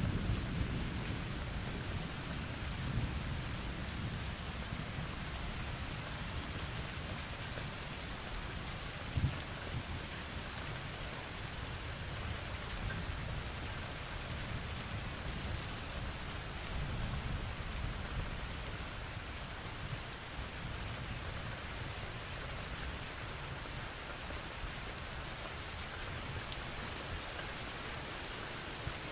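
Thunderstorm: steady rain hissing with thunder rumbling low underneath. The rumble is strongest near the start and swells again a couple of times. There is a brief low thump about nine seconds in.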